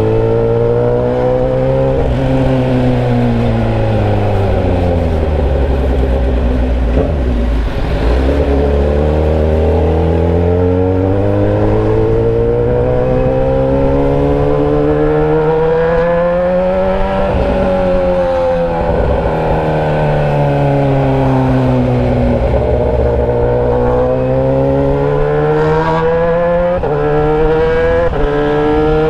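Motorcycle engine running through a bare exhaust pipe with no muffler, loud and unsilenced, under way. Its pitch sinks over the first several seconds to a low steady stretch, climbs to a peak a little past the middle, falls, then climbs again, with a quick drop and pick-up near the end.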